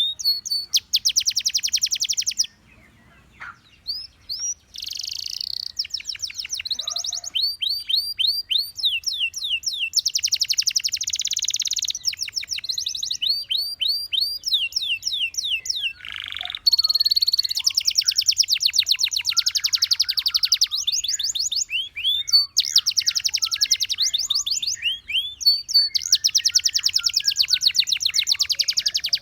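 Gloster canary singing: fast rolling trills alternate with runs of rising whistled sweeps, with a short break about two and a half seconds in.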